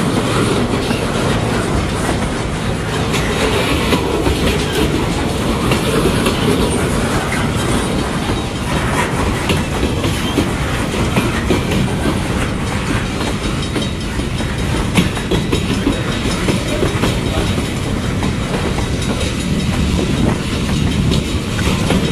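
Freight cars rolling steadily past at a grade crossing, their steel wheels clicking over the rail joints under a constant rumble.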